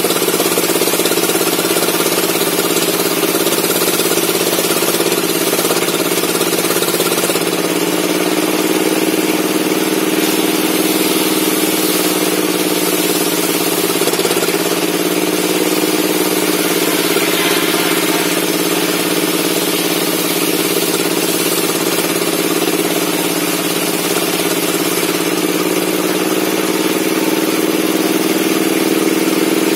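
Log-cutting circular saw bench running steadily with a continuous hum and hiss, its pitch sagging slightly a few times as if taking load.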